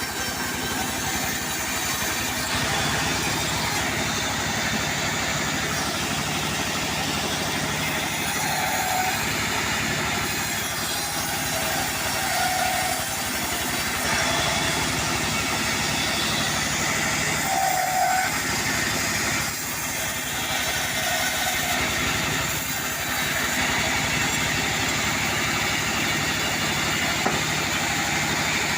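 Portable sawmill running: steady machine noise from its engine and saw, with no pauses.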